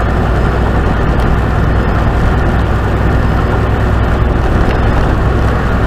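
Steady engine drone and road noise inside a tractor-trailer's cab while it drives along the highway.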